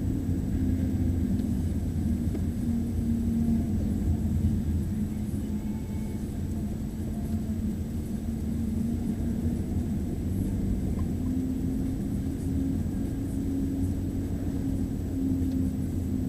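Steady low rumble of a running car engine, its pitch drifting slightly.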